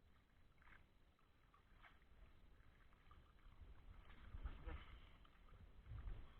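Near silence: a faint low rumble with a few soft knocks, the loudest about four and a half seconds in and again near the end.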